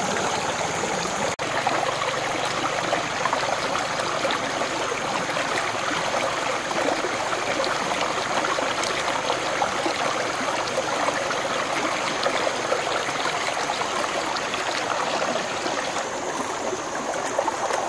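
Running water, a steady, even rush like a flowing stream, with a momentary break about a second and a half in.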